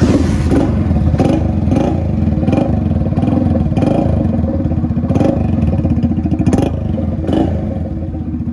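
Hero Honda CD 100's single-cylinder four-stroke engine running loud through a Yamaha RX 100 silencer with no mesh or baffle inside, a straight-through exhaust, with short sharper bursts about every 0.7 seconds.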